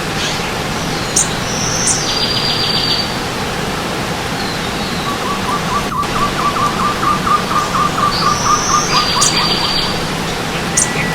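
Several forest birds calling over the steady rush of stream water: a high buzzy call twice, and a long trill of quick evenly repeated notes through the middle.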